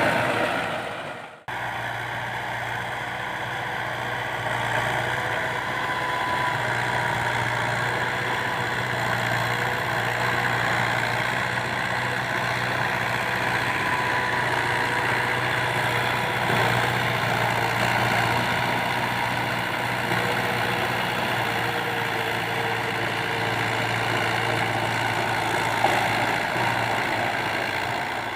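Fiat 640 tractor's diesel engine running steadily, pulling a cultivator, a constant low drone. The sound fades out and cuts back in about a second and a half in.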